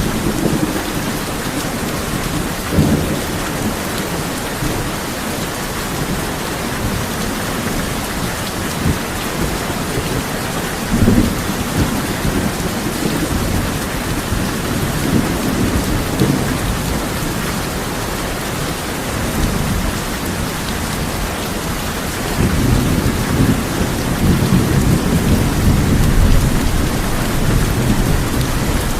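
Heavy rain falling steadily on a tin roof, with thunder: short low rumbles about 3 and 11 seconds in, then a longer, louder rumble from about 22 seconds on.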